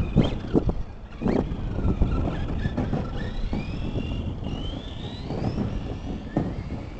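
Brushless electric motor of an RC touring-chassis truck whining, its pitch rising for a few seconds in the middle as the truck speeds up, over heavy wind rumble on the microphone. A few knocks near the start.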